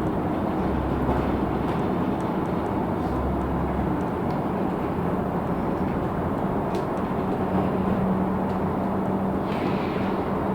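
Cabin noise of a LiAZ 6213.65 articulated city bus on the move: steady engine drone and road noise, with a low hum that shifts in pitch partway through and a few light rattles.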